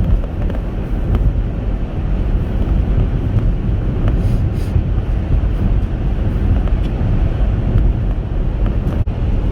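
Steady road and engine noise of a Chevrolet Captiva SUV driving, heard from inside the cabin: a continuous low rumble with no distinct events.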